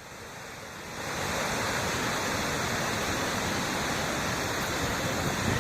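Floodwater rushing in a steady, heavy wash of noise that fades in over about the first second.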